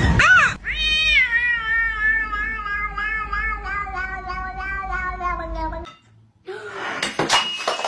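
Domestic cat giving a short meow, then one long, drawn-out meow of about five seconds whose pitch wavers and slowly sinks. A few noisy bursts follow near the end.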